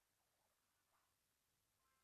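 Near silence, with a couple of very faint brief sounds about half a second and one second in.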